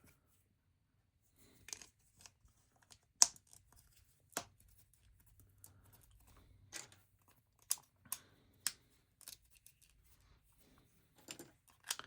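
Plastic LEGO bricks being handled and pressed together: scattered sharp clicks and small rustles, about ten in all, the loudest about three seconds in.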